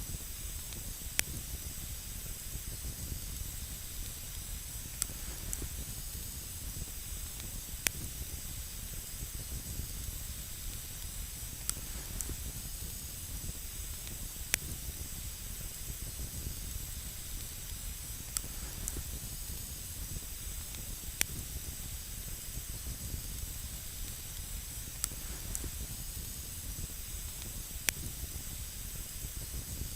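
Wood campfire burning with a steady hiss and sharp single crackles, about a dozen, scattered irregularly every one to four seconds.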